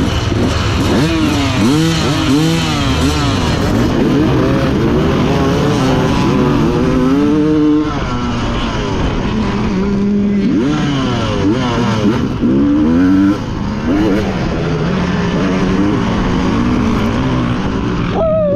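Dirt bike engine revving hard and repeatedly climbing and dropping in pitch as the throttle opens and closes through the gears on a motocross track.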